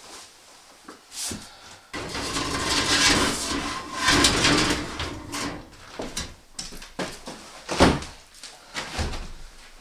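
Wood scraping and creaking for a few seconds, with scattered knocks; the sharpest knock is near the end.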